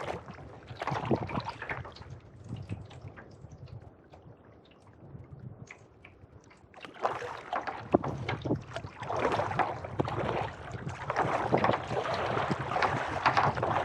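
Kayak paddle strokes: the blades dip and splash and water drips off them. The strokes ease off for a few seconds in the middle, then come back steadily and louder in the second half.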